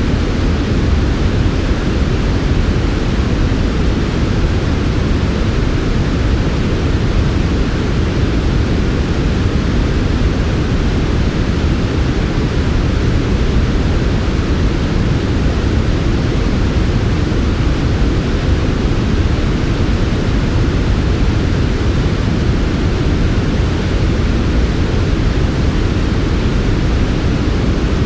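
Steady synthetic sleep noise, smooth and unbroken, its energy heaviest in the low range with a softer hiss above.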